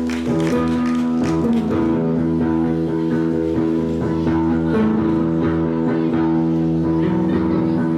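Live rock band playing an instrumental passage on electric guitar and bass guitar, holding sustained chords that change about five seconds in and again near the end.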